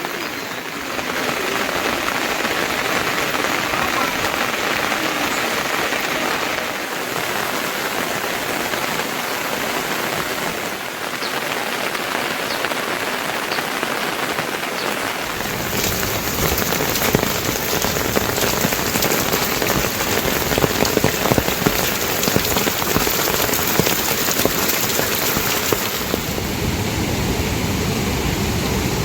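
Steady rain falling. About halfway through it turns heavier and fuller, with many separate drop hits.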